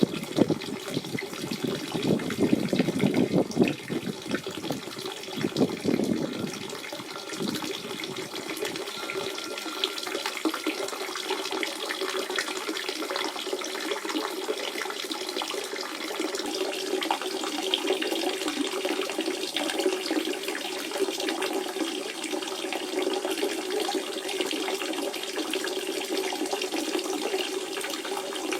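Natural spring water running and splashing in a steady flow. It is louder and more uneven for the first seven seconds or so, then settles into an even rush.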